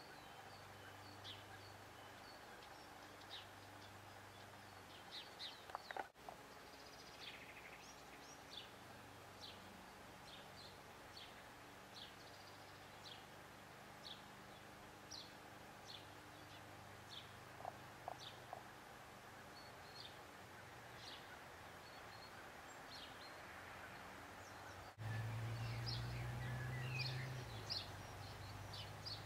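Faint outdoor ambience with a small bird repeating short high chirps about once a second over a low steady hum. After a cut near the end, a louder low rumble comes in under the chirps.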